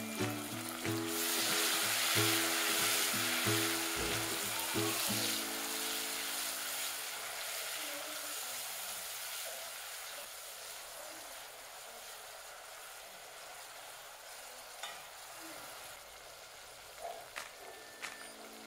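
Chopped tomatoes sizzling in hot oil with fried onions as they are stirred in the pot. The sizzle is loudest just after they go in and then slowly dies down.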